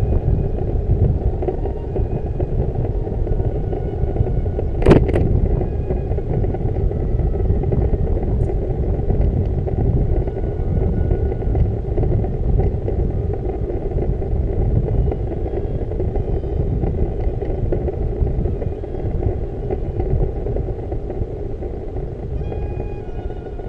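Steady low rumble of wind and road noise while riding a bicycle, with one sharp click about five seconds in.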